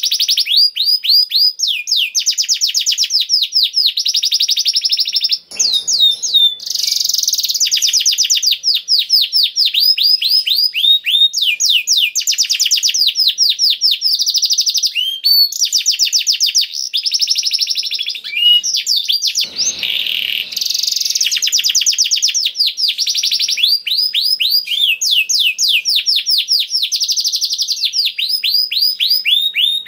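Domestic canary (kenari) singing a continuous, loud song of rapid trills: fast series of repeated sweeping notes, changing tempo and pitch from phrase to phrase with only momentary breaks. A brief low rustle or bump sounds about 5 s in and again about 19 s in.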